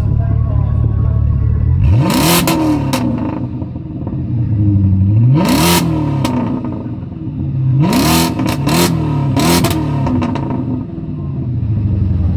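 BMW 550i V8 through a custom exhaust, revved from idle: one rev about two seconds in, another midway, then a quick run of short blips near the end, each rising and falling in pitch.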